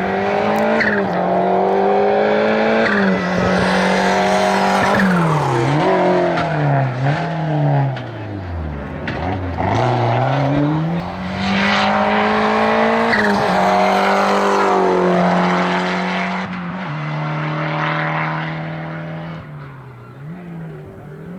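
Race car engine at high revs on a hillclimb, with several lifts and downshifts: the revs swoop down sharply about eight seconds in and climb again under hard acceleration. The engine holds a high steady note, then fades as the car moves away.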